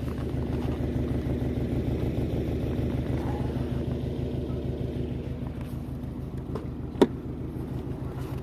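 Subaru Legacy BG9's flat-four engine idling steadily through its new exhaust. A single sharp click comes about seven seconds in.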